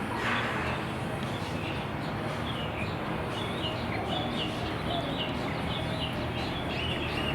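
Small birds chirping in quick short repeated calls over a steady low background hum, after a brief rustle just after the start.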